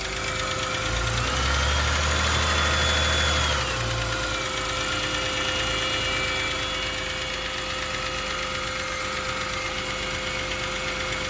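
BMW petrol engine idling with a ticking noise. Its pitch rises about a second in and drops back to idle a few seconds later. The ticking comes on after long idling or gentle driving, which the mechanic puts down to oil and expects to clear by running it above 3,500 revs, not to the timing chain.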